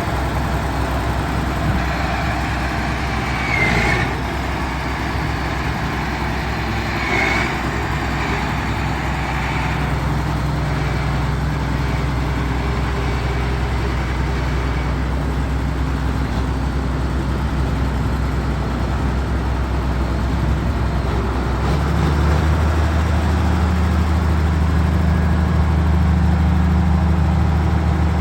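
Case 4690 four-wheel-drive tractor's diesel engine running steadily, with two brief higher-pitched sounds about four and seven seconds in. About two-thirds of the way through, the engine speeds up and holds at a higher, louder note.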